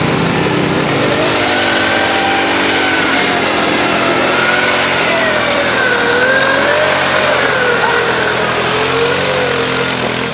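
Car engine held at high revs, its pitch wavering up and down, over a steady rushing noise.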